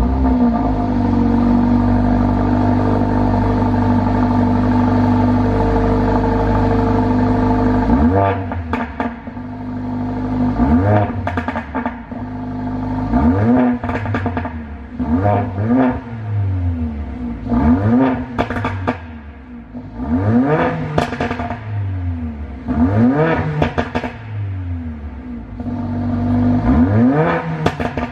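Mercedes-AMG A45's turbocharged 2.0-litre four-cylinder engine, heard at its exhaust tailpipes shortly after a cold start. It holds a steady raised idle, then from about eight seconds in it is blipped repeatedly, each rev rising in pitch and dropping back to idle.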